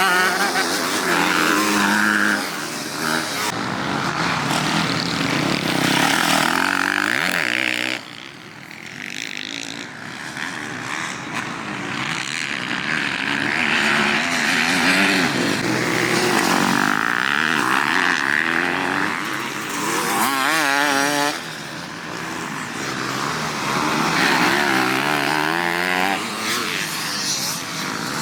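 Motocross dirt bikes racing, engines revving up and down in pitch as they accelerate and change gear, several bikes overlapping. The sound drops off abruptly about eight seconds in and again near twenty-one seconds, then builds back up.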